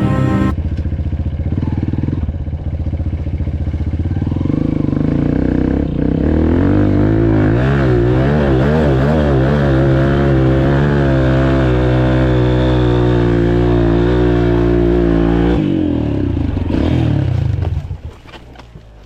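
Four-stroke dirt bike engine revving hard under load, its revs wavering rapidly up and down for a few seconds in the middle. It drops back about 16 seconds in and dies away near the end.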